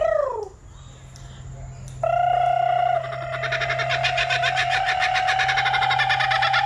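A short falling whoop, then a caged bird's long call held at one pitch that breaks into a fast pulsing chatter from about three seconds in. The bird is answering what it takes as a challenge over its perch.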